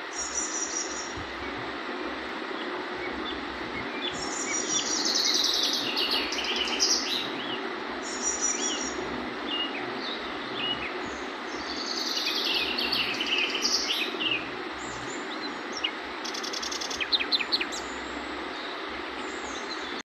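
Birds chirping in several bursts of rapid, high trills and short calls, over a steady background hiss.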